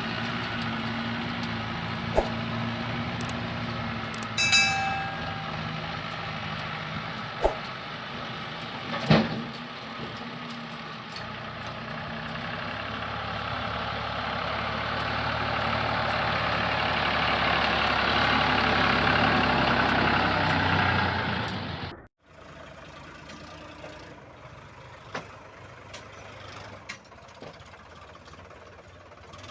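Heavy machine's diesel engine running and working hard, growing louder for several seconds before an abrupt cut about three quarters of the way through to a much quieter engine sound with scattered clicks. A few sharp knocks and a brief high whistling tone come in the first ten seconds.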